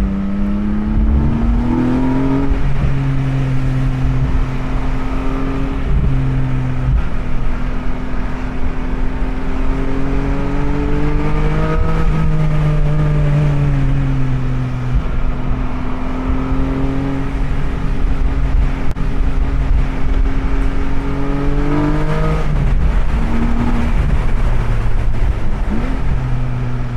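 Porsche 718 Boxster GTS 4.0's naturally aspirated 4.0-litre flat-six driving on the road with the top down. The engine note climbs, holds, swells slowly and eases back, with a few sudden drops in pitch at gear changes. Wind and road noise fill the open cabin.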